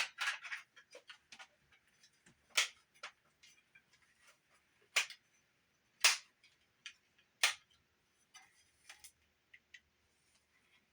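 Sharp mechanical clicks of a Sony TC-50 cassette recorder's keys being pressed and released: four loud clicks a second or two apart, with lighter handling ticks between. No motor or tape sound follows, since the machine is not running.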